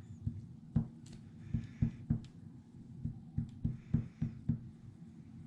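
Fingertips tapping glued paper die-cut letters down onto a scrapbook page: a dozen or so light, irregular taps, with faint paper rustling between them.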